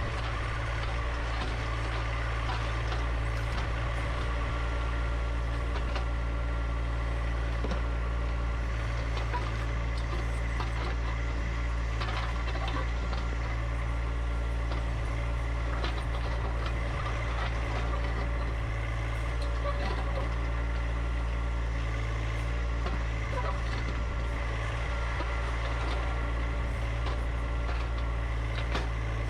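John Deere 1025R compact tractor's three-cylinder diesel engine running steadily at a constant speed, with faint scattered clicks over it.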